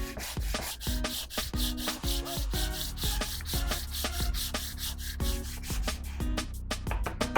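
Steel of a spade drill bit rubbing against an abrasive as it is sharpened by hand, a raspy hiss that carries over background music and eases off near the end.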